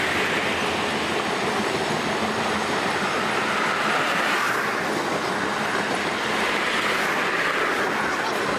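Railroad cars rolling past at speed, a steady noise of steel wheels on rail with no horn or engine beat standing out.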